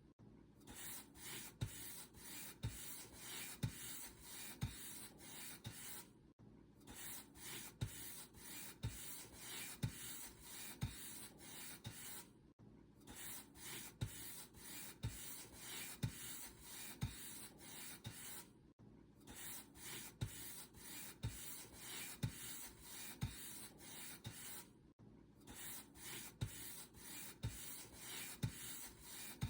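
Paint brush bristles stroked back and forth over a surface, a dry swishing about once a second with a soft low knock at each stroke. The strokes break off briefly about every six seconds.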